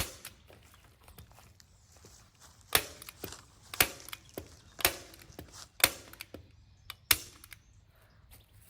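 A hand staple gun firing six times, about one sharp snap a second, driving staples through plastic sheeting into a wooden frame.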